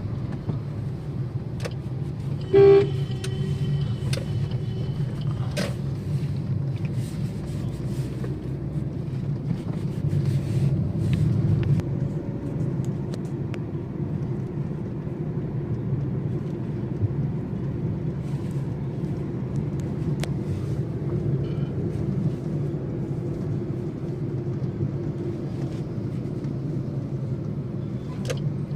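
Steady low rumble of road traffic in a jam, with a single short vehicle horn toot about three seconds in.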